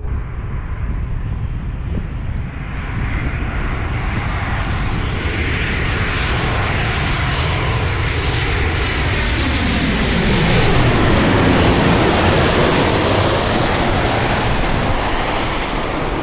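Boeing 737 jet airliner on final approach passing close by: a jet rush that builds and is loudest about eleven seconds in, its tone sweeping down as it goes past.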